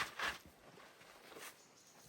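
Footsteps crunching in snow: two steps at the start, then a faint one about a second and a half in.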